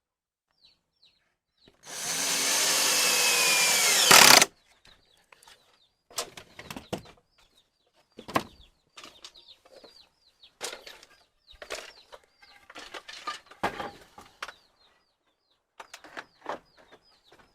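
A power drill runs steadily for about two and a half seconds, then stops with a sharp clack. After that come scattered knocks and rustling from handling wood, with faint high bird chirps throughout.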